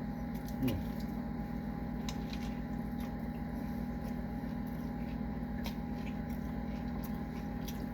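Steady low electrical hum with a thin higher tone, with a few faint clicks scattered through it.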